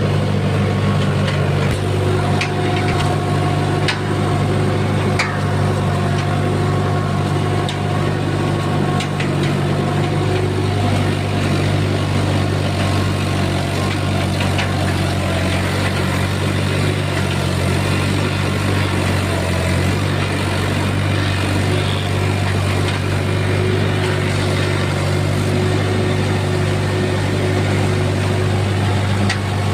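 Mahindra tractor's diesel engine running steadily at constant speed, with a few light clicks and rattles over it.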